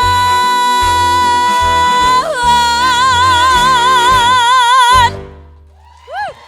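Music: a singer holds one long high note, steady at first and then with a wide vibrato, over a band with a bass line. The music cuts off suddenly about five seconds in, leaving faint crowd noise and a short rising-and-falling call near the end.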